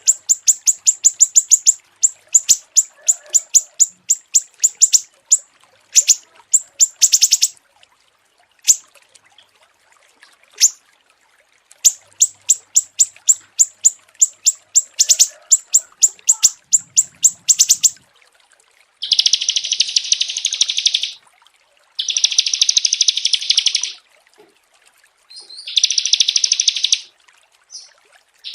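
Small songbirds singing: long runs of rapid, sharp, high-pitched chips, then, about two-thirds of the way through, three long buzzy trills of about two seconds each with short gaps between them.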